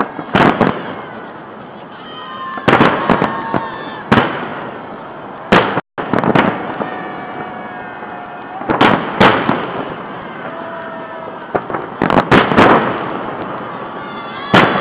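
Salute fireworks shells bursting in sharp bangs every one to three seconds, several in quick pairs, with crackling and wavering tones between the bangs.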